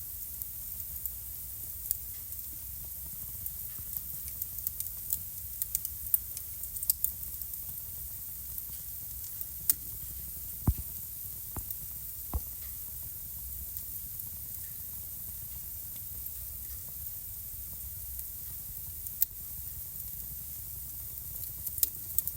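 Wood fire burning in a home fireplace: a steady low rumble and hiss with scattered sharp crackles and pops, a cluster of them about six seconds in and several louder pops around eleven to twelve seconds.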